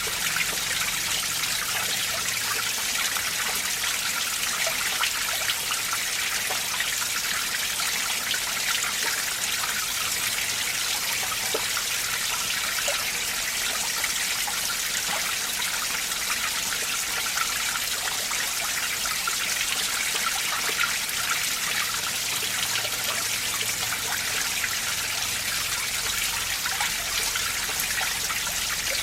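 Mountain stream running over rocks: a steady rush and trickle of water with no pauses.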